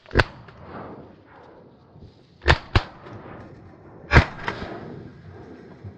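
Shotgun shots at flying ducks from two hunters: one shot about a fifth of a second in, a quick pair about two and a half seconds in, and the loudest shot about four seconds in.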